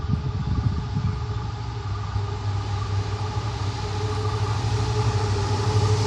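WDG4 diesel-electric locomotive's 16-cylinder two-stroke EMD engine running under load as the train passes, a steady low drone that grows louder near the end.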